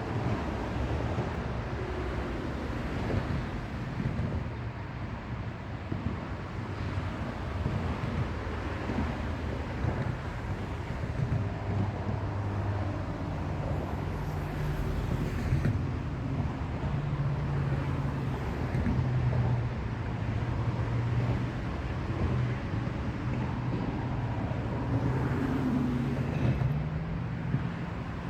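Steady low drone of vehicle traffic under outdoor noise.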